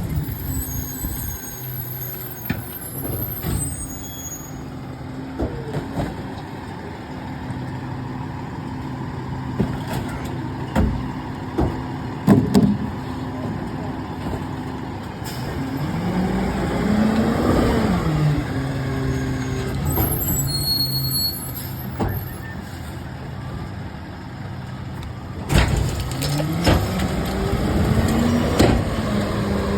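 Garbage truck engine running at idle, revving up and back down twice as it powers the hydraulics. Short air brake hisses near the start and about two thirds through, and a few sharp metal knocks in between.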